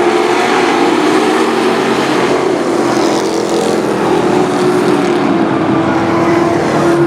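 Race trucks' engines running on an oval track, a steady loud engine note with a rise in the higher sound around the middle as they come by.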